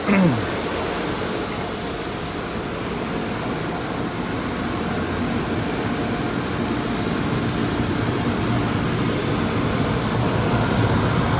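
Automatic car wash at its spot-free rinse stage, heard from inside the car: a steady rush of spray and machinery with a low hum, growing slightly louder near the end.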